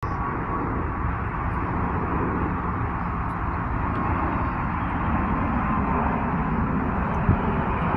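Jet airliner engines heard as a steady, low rushing roar with a faint steady whine, growing slightly louder.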